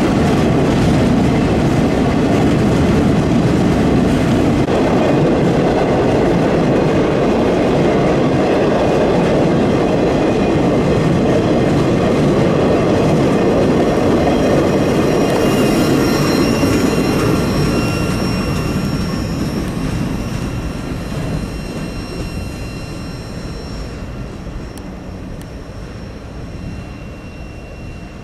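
Empty ore hopper cars of a freight train rolling past close by, a loud steady rumble and rattle of wheels on rail. Past the midpoint the last car goes by and the sound fades as the train moves away around a curve, with faint high wheel squeal.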